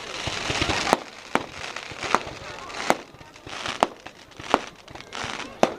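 Fireworks going off: about seven sharp bangs, roughly one a second, with a hiss of noise between them.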